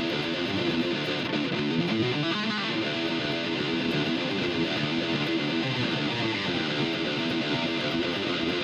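Electric guitar played through a Yamaha THR10X modelling amp on a high-gain distorted setting, a continuous stream of quickly changing notes.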